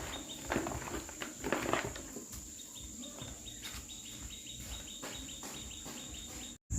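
Rural outdoor ambience: a steady high-pitched insect drone, like crickets, runs throughout. A few short rustling bursts come in the first two seconds. The sound drops out for a moment near the end.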